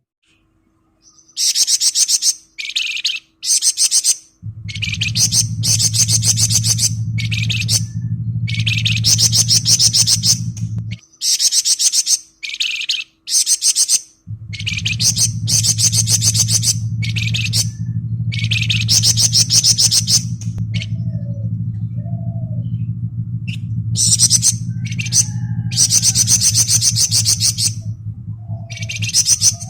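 Flamboyan songbird singing its 'ngebren' song: a series of fast, dense, high-pitched trills, each lasting about a second, separated by short pauses. A low steady hum runs underneath from about four seconds in and drops out for a few seconds near the middle.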